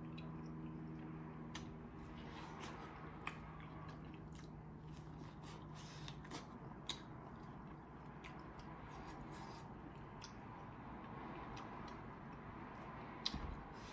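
Close-miked biting and chewing of boiled corn on the cob: soft wet mouth sounds with scattered small clicks. A faint steady low hum runs under the first half and fades out.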